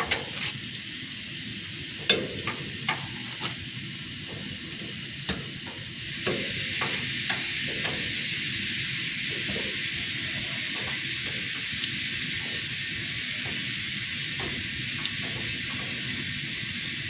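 Compressed air hissing and spluttering out of an air brake cylinder, spitting water as it escapes; the sputter is the sign of water collected inside the brake cylinder. The hiss gets louder about six seconds in and then holds steady.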